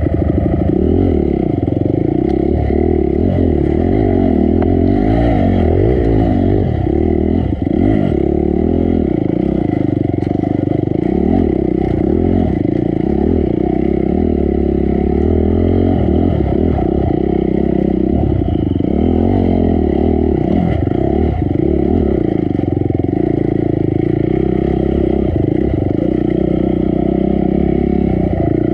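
Honda CRF250 dirt bike's single-cylinder four-stroke engine revving up and down over and over as the rider works the throttle through rocks and roots, with a few knocks and clatters.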